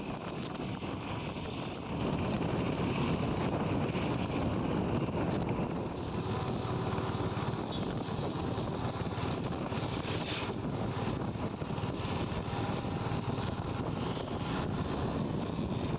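Steady rushing noise with wind buffeting the microphone, getting louder about two seconds in.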